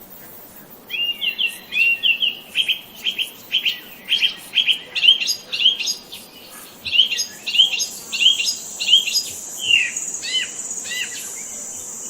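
A songbird singing a rapid series of short, bright chirps, about two or three a second, starting about a second in. From about two-thirds of the way through, a steady high-pitched buzz sounds beneath them.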